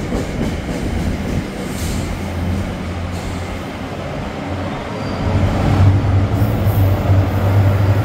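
NJ Transit multilevel commuter train rolling past along the platform, its wheels running on the rails. A low hum grows louder from about five seconds in.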